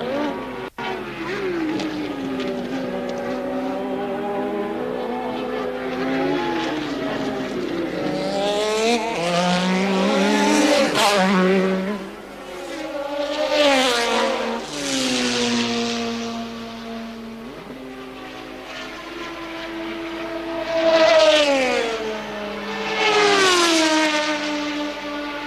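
1983 Formula One cars racing past at speed, their engine notes rising as they approach and dropping in pitch as they go by, several passes overlapping. There is a brief cut in the sound just under a second in.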